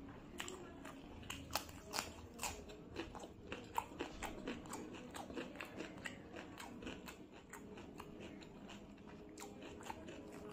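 Close-miked biting and crunching of a raw cucumber slice, then chewing: sharp crisp crunches come thick and fast for the first five seconds or so, then thin out into quieter chewing.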